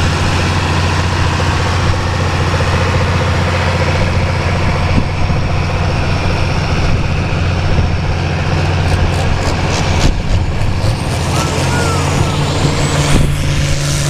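International Harvester 966 pulling tractor's six-cylinder diesel engine running hard under load during a pull, a steady heavy drone. Its low tone shifts slightly near the end.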